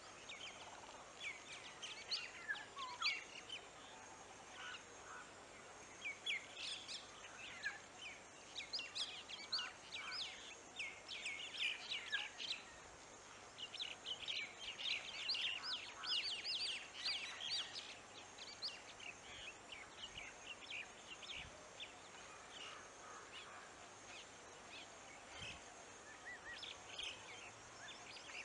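Birds chirping and calling: many short, high chirps come in busy bouts, thickest in the middle and thinning toward the end.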